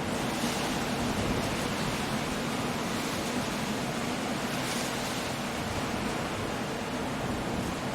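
Stormy sea surf and wind on a rocky coast: a steady wash of noise, swelling briefly with hiss about half a second in and again near five seconds in.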